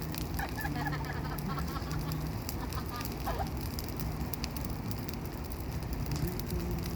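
A large, high-flaring wood campfire burning, with frequent sharp crackles and pops over a low rumble.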